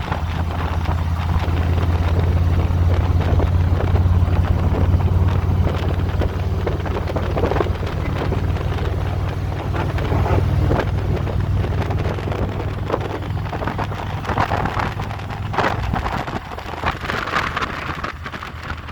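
Harley-Davidson V-twin motorcycle engine running under way, with wind buffeting the helmet or GoPro microphone. The low engine note is steady at first, eases off past the middle, and drops lower near the end.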